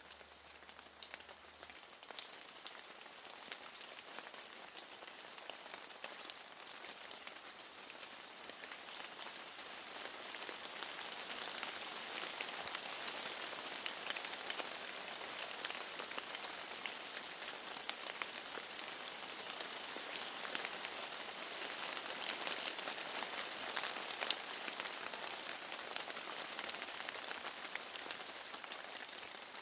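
Steady rain with many small drops ticking sharply, growing heavier about ten seconds in.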